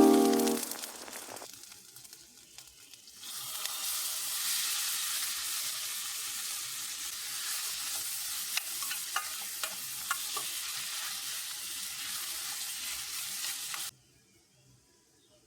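Food sizzling as it fries in a pan, starting about three seconds in, with a few light clicks along the way. The sizzle cuts off abruptly about a second before the end. The first second or so holds the last notes of background music fading out.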